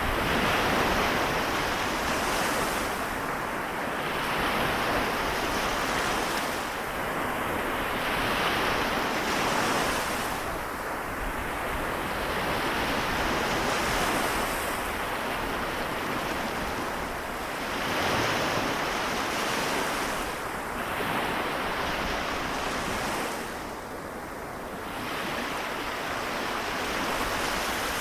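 Waves of the Seto Inland Sea washing on the shore, a steady wash that swells and eases in surges every three to four seconds.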